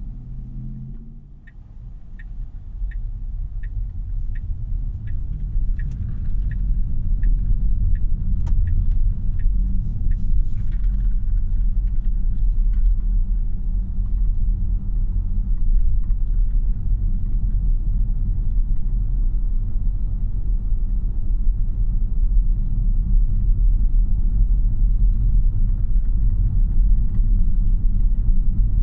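Inside the cabin of a Tesla Model Y electric car on the move: steady low road and tyre rumble with no engine note. The rumble dips just after the start, then grows as the car gathers speed. From about a second and a half in, a turn-signal indicator ticks about eleven times, roughly one and a half ticks a second.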